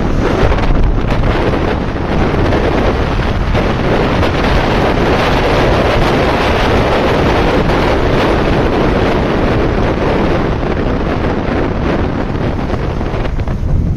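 Wind rushing loudly and steadily over the microphone, as on a motorcycle ridden at speed.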